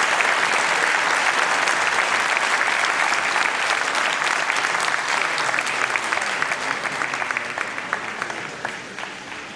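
Large audience applauding, dense at first and thinning out to scattered claps near the end.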